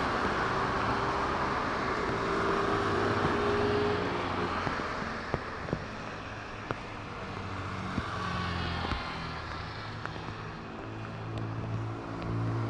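Jet engines of a Boeing 747-8 freighter, four GEnx-2B turbofans, running at high power as a steady rumble, easing a little after about four seconds, with a few sharp clicks.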